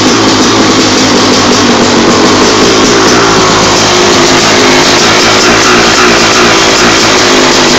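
2007 Honda CR250R's two-stroke single-cylinder engine, fitted with a new Keihin PWK Airstriker carburettor, running loudly with its pitch wavering a little.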